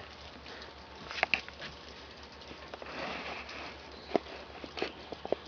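Rainwater dripping off a roof edge: a few scattered single drips and light splashes, quiet.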